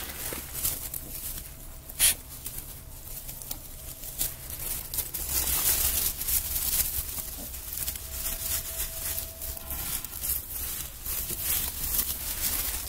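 Newborn piglets shuffling about, with a continuous rustling and pattering. A sharp click comes about two seconds in, and a faint steady hum runs through most of it.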